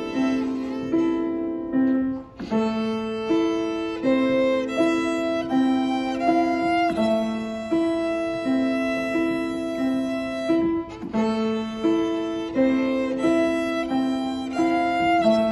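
Live instrumental music on a Steinway grand piano, with a melody in even, steady notes, about one every 0.7 seconds. The music drops briefly about two seconds in.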